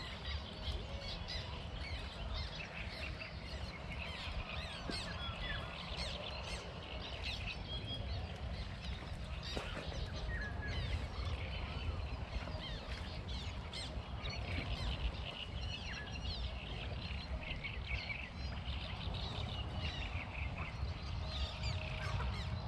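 Birds chirping and calling throughout, with honk-like calls, over a steady low rumble.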